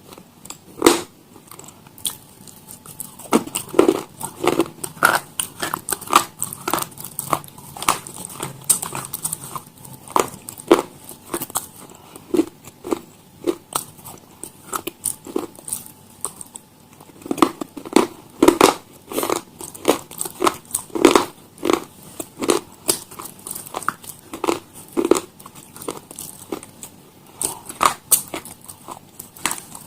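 Crunchy food being bitten and chewed close to the microphone: a dense, irregular run of sharp crunches and crackles that comes in clusters.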